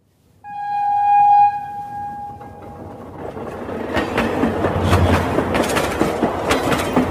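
A train horn sounds once, a single held tone lasting about two seconds. Then a steady clattering rattle, like a train running along its track, fills the rest.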